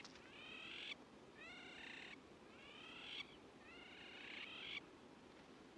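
An animal calling faintly and repeatedly, about once a second: a series of similar rising notes, each under a second long, that stop near the end.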